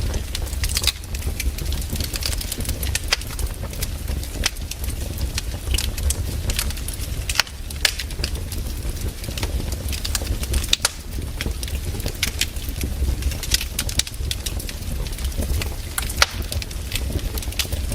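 Firewood burning, crackling with sharp, irregular pops over a steady low rumble.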